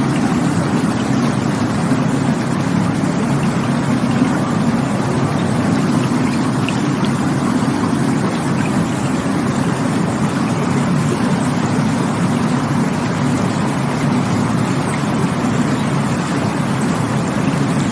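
Rushing water of a stream or small waterfall, a steady unbroken rush weighted toward the low end.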